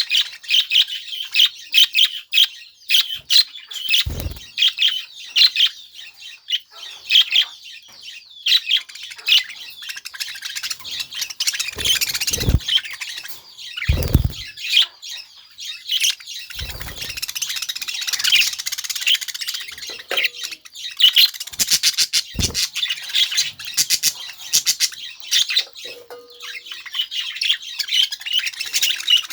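Budgerigars chirping and warbling continuously in rapid, high-pitched chatter, with squawks mixed in. A few short low thumps occur, around a sixth of the way in and several times near the middle.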